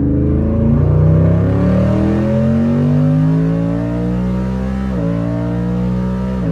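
Twin-turbocharged 5.0 V8 of a 2020 Ford F-150 pulling hard at full throttle on wastegate-only boost, its lowest power setting. The engine note climbs steadily, with a short dip about five seconds in and another near the end as the automatic shifts up.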